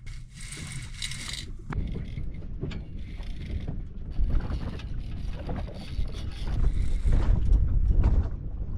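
Knocks, clunks and scraping of an outboard motor being handled and moved, over a steady low rumble of wind on the microphone. There is a brief hiss in the first second and a half.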